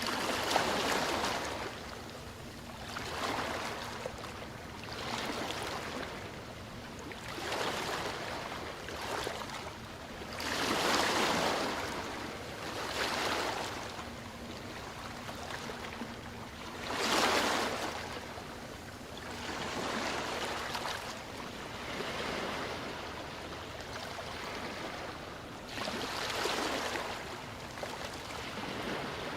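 Ocean waves washing ashore, each surge of surf swelling and fading every two to three seconds, with two larger breakers about eleven and seventeen seconds in.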